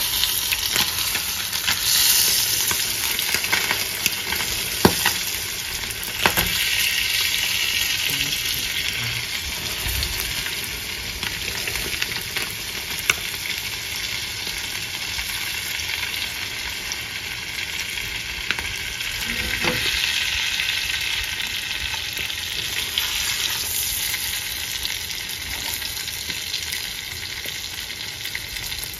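Stingray (mangrove whipray) wing shallow-frying in bubbling butter in a nonstick pan: a steady sizzle, with a few light clicks as chopsticks touch the fish and pan.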